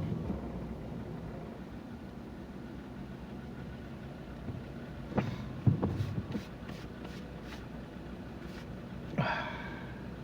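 Steady road and engine noise inside a moving car, with two sharp knocks a little past the middle followed by a short run of faint ticks.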